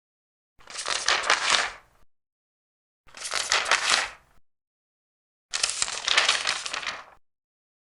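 Large paper pages being turned, three times, each turn a crackling rustle lasting a second or so, separated by silent gaps.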